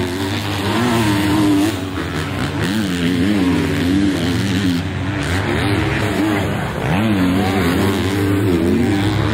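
Off-road motorcycle engines revving up and down over and over, pitch rising and falling with each throttle opening and gear change, as the bikes ride round a motocross track.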